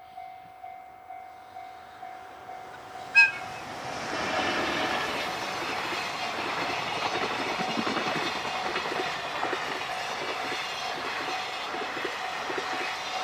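A level-crossing bell dings about twice a second, then a short, loud horn blast sounds about three seconds in from an approaching EH500 electric locomotive hauling a freight train. From about four seconds in the freight train passes at speed, a steady rumble with wheel clatter over the rail joints.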